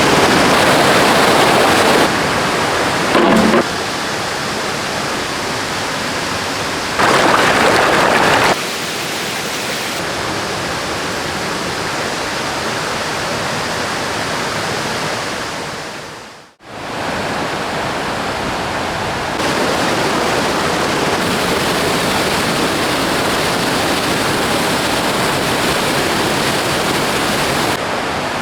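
Rushing river water, a steady noise that jumps in level at several cuts and fades out briefly just past the middle before coming back.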